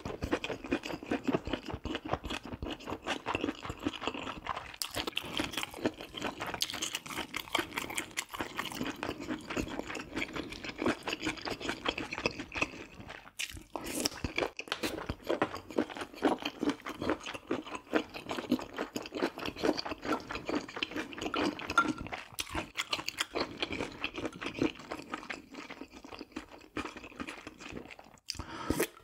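A person chewing food close to the microphone: a steady run of wet crunching and clicking mouth sounds, with a brief pause about halfway through.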